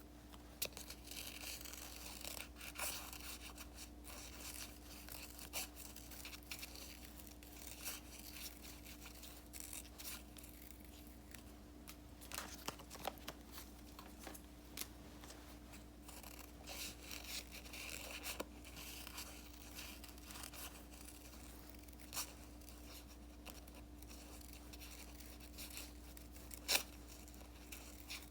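Paper and sticker handling at a desk: soft rustling and peeling of sticker paper, broken by scattered light clicks and taps, with the sharpest click near the end, over a faint steady electrical hum.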